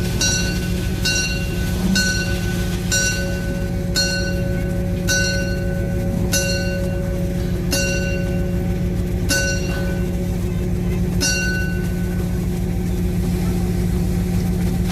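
A bell struck over and over, about once a second at first, the strokes spreading out until they stop about eleven seconds in, over a steady low hum at the railway turntable.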